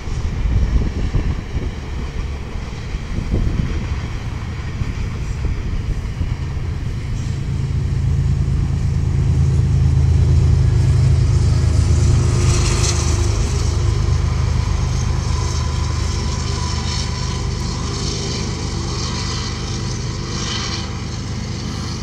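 A passing train: a low, steady rumble that builds to its loudest about halfway through and then slowly fades, with brief higher-pitched noise near the middle and again near the end.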